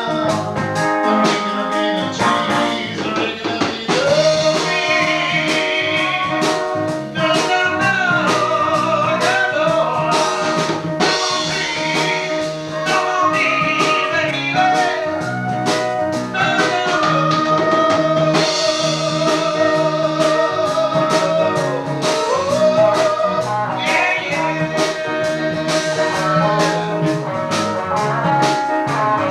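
A band playing a blues-flavoured song, with singing over guitar and drum kit and a steady drum beat. Long held notes waver in pitch.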